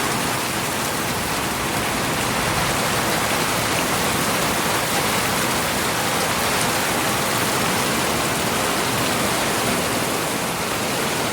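Heavy rain pouring down in a steady, dense downpour of large drops.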